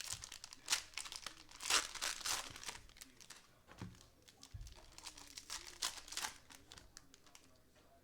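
Cellophane wrapper of a 2021 Mosaic football cello pack being torn open and crinkled by hand, in a run of sharp rustles that is loudest about two seconds in and again about six seconds in, then dies away.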